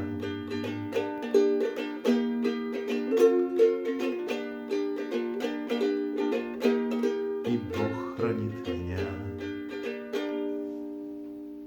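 Instrumental ending of a song played on a plucked string instrument: picked notes and chords, with a few low bass notes, ending on a final chord that rings out and fades.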